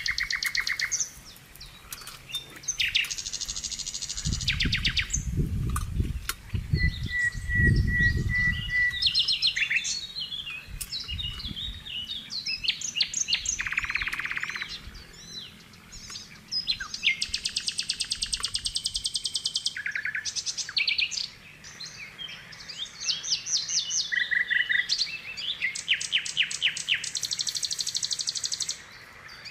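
Wild birds singing around a grassy mountainside, rapid trills and chirps repeating throughout, with a few dull low thuds a few seconds in.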